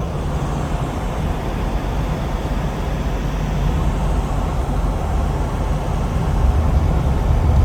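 Steady low rumble of engine and road noise inside a moving car's cabin, growing a little louder near the end.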